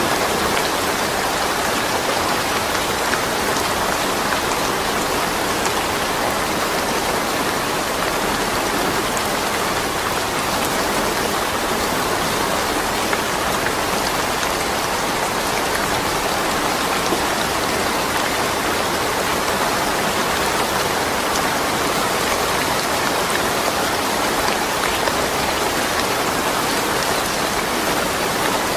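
Steady rain falling without thunder, an even hiss with a dense patter of drops.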